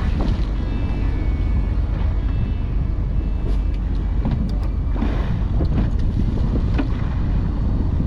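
Boat engine rumbling steadily with wind buffeting the microphone, and a few short sharp knocks or splashes partway through.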